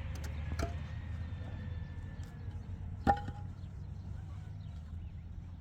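A single sharp knock about three seconds in, with a brief ring after it, and a few lighter clicks in the first second, over a low steady hum.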